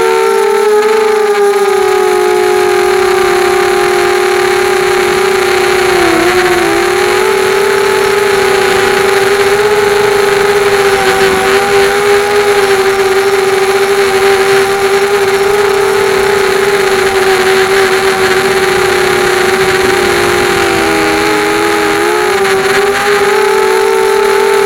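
QAV250 250-size racing quadcopter's brushless motors and propellers whining steadily in flight. The pitch dips briefly about six seconds in and again near the end as the throttle eases, then climbs back.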